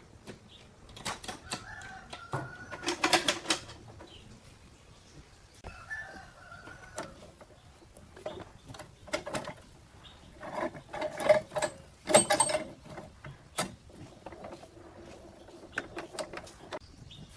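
Irregular sharp knocks and clanks, loudest about three seconds in and again about twelve seconds in, with chickens clucking in the background.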